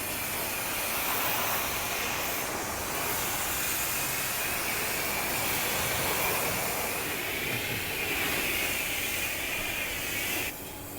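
High-pressure water spray from a self-serve car wash wand hitting a truck bed tarp: a steady loud hiss that cuts off abruptly near the end.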